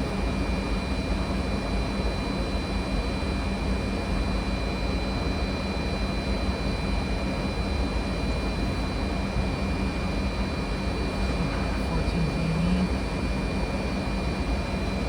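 Steady cockpit noise of a Fokker 100 jet airliner on approach: an even rush of airflow and air conditioning over a low hum, with two faint steady high-pitched tones from the flight-deck equipment.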